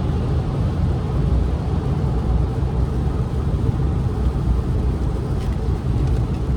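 A car or truck driving at highway speed: a steady low rumble of road and engine noise.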